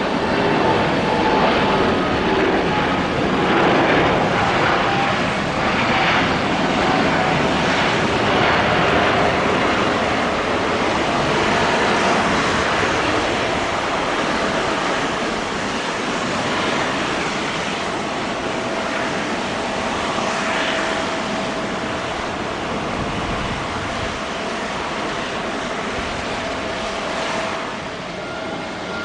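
Airbus A350-941 airliner's Rolls-Royce Trent XWB turbofans running past at the runway, a loud jet noise with a steady whine, strongest in the first half and slowly fading away.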